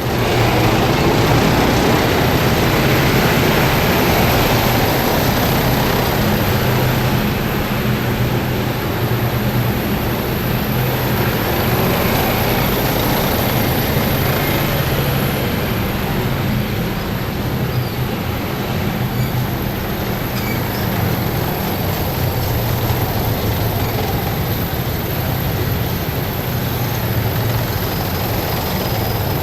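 Heavy military vehicles driving past in a column, a loud, steady engine drone with a low hum underneath.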